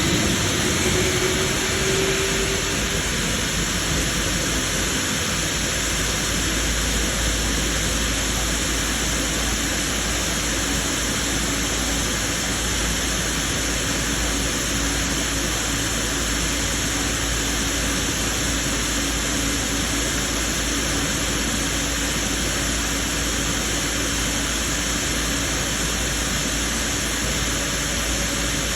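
Rolls-Royce Trent 800 turbofan on a Boeing 777 running steadily: an even rushing jet noise with a faint hum underneath. A faint higher tone fades out in the first few seconds.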